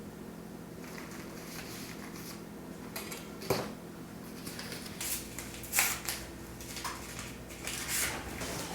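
Dishes and utensils being handled: scattered clinks and clatters, the loudest about three and a half and six seconds in, over a steady low hum.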